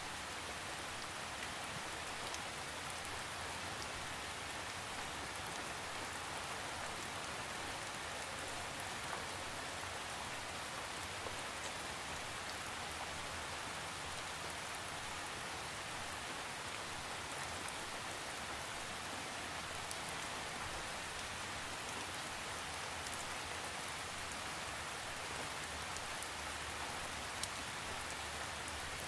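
Steady rain falling on a surface, an even hiss with scattered droplet ticks and no thunder.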